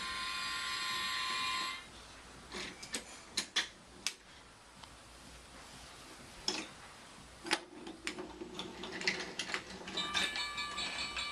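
Toy train set: an electronic tone sequence plays briefly and cuts off about two seconds in, followed by scattered sharp plastic clicks and knocks from the toy being handled. Near the end the electronic sound starts again.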